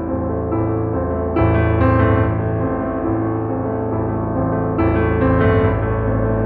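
Instrumental piano music: held chords, with new notes struck twice in quick succession near the start and again near the end.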